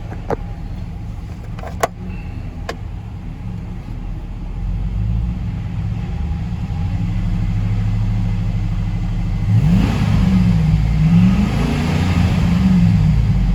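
A 6.0-litre LQ9 V8 engine running at a steady idle, then blipped up and down in several revs near the end, its pitch rising and falling with each. There are three sharp clicks in the first few seconds.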